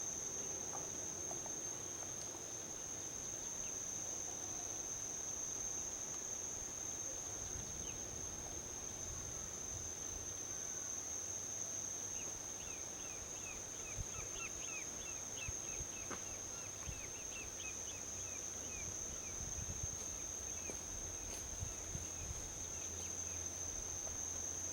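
Forest insects keeping up a steady high-pitched drone, with a run of quick chirps about halfway through, over a faint low rumble of distant highway traffic.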